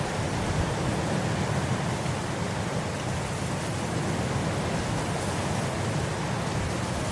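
Wind blowing across grass: a steady rushing hiss with a low rumble underneath, even throughout with no distinct events.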